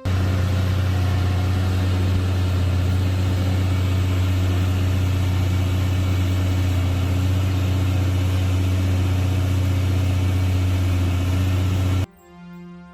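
A large engine running steadily with a low, even hum. It starts and cuts off abruptly, stopping about a second before the end, when faint music takes over.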